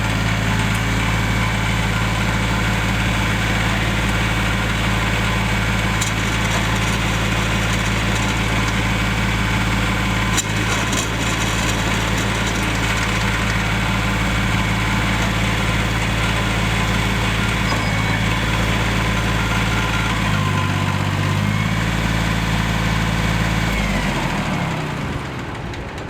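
Yanmar 180D diesel tractor engine running at a steady speed, dipping briefly in speed about twenty seconds in, then slowing and winding down near the end as it is shut off.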